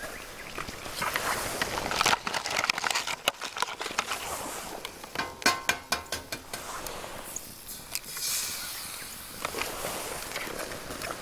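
Campfire cooking in a Nanbu cast-iron pan: a steady sizzling hiss with scattered crackles, and a run of quick clicks about five to six seconds in.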